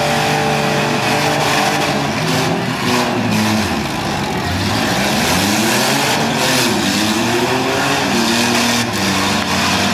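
Engines of several demolition derby cars running and revving hard at once, their pitches rising and falling as the cars rev.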